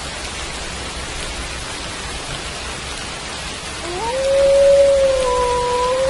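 Steady rain falling, with a wolf howl coming in about four seconds in. The howl rises in pitch, then holds on one long note that is louder than the rain.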